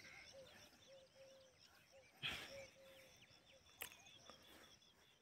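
Faint rural ambience: a bird repeating a short low note two or three times a second, with fainter high chirps. A brief noisy puff comes about two seconds in.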